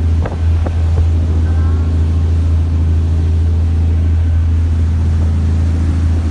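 A ferry's engine running with a steady low hum, with a couple of faint knocks about half a second in.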